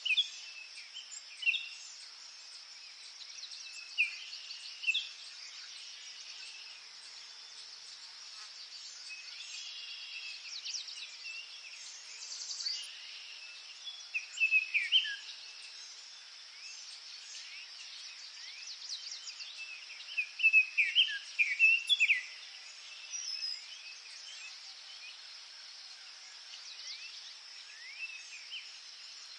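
Forest birds chirping and singing in scattered short phrases, with the loudest bursts about halfway through and again about two-thirds of the way through. Underneath runs a steady high-pitched insect drone.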